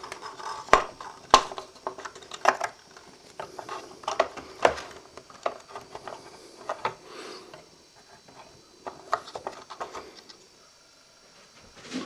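Irregular light clicks and knocks of small metal parts and tools being handled as a projector's clutch mechanism is worked loose. The clicks come thickest in the first few seconds, then thin out and grow fainter.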